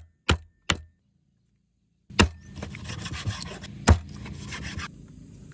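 A few sharp knocks, a short gap, then a stretch of scraping and rubbing, as on wood, with two hard knocks in it about two and four seconds in.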